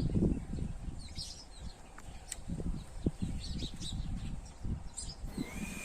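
Small birds chirping and twittering on and off, with two faint sharp clicks about two seconds in. A steady high-pitched tone starts near the end.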